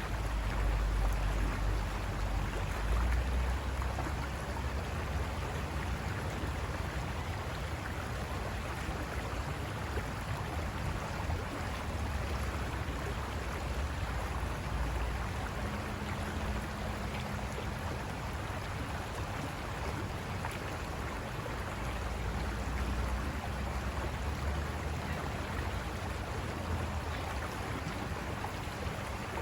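River water rushing over rocks, a steady rush with a low rumble underneath.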